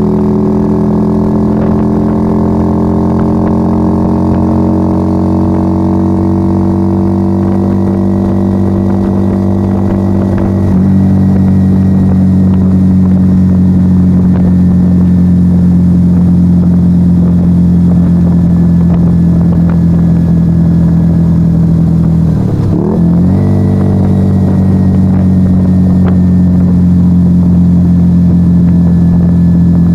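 Yamaha XV125 Virago's small V-twin running through a straight-piped Turbo Kit exhaust with no dB killers, pulling steadily with revs slowly climbing. About a third of the way in the pitch steps down and the sound gets louder, and about two-thirds in the revs dip and come straight back up, as at a gear change, before a steady cruise.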